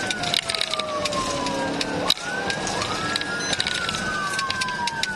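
Police car siren on wail, slowly falling in pitch, sweeping quickly back up about two seconds in, then falling slowly again. Road and vehicle noise run under it, with many short sharp clicks.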